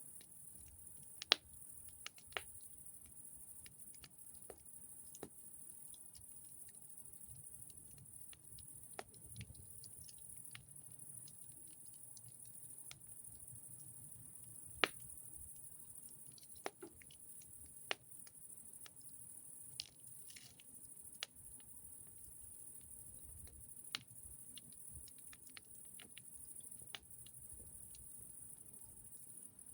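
Campfire crackling quietly, with scattered sharp pops a second or a few seconds apart.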